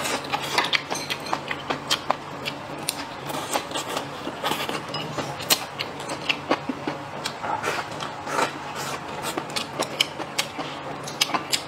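Close-miked chewing and mouth sounds of a person eating, a steady run of irregular wet clicks and smacks.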